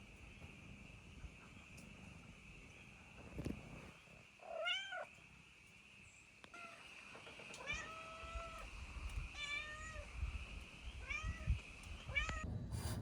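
A domestic cat meowing about six times, short rising-and-falling calls a second or two apart. Behind it a steady high-pitched drone stops shortly before a sharp click near the end, with low wind rumble on the microphone.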